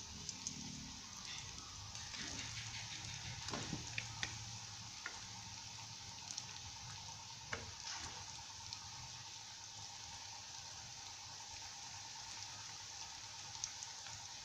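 Breaded quail eggs frying in hot oil in a pan: a steady sizzle with scattered small pops.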